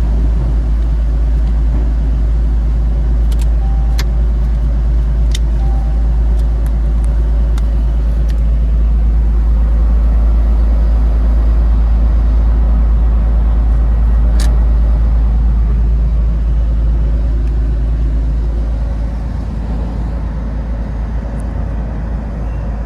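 Steady low engine rumble, with a few faint clicks over it; it eases off slightly near the end.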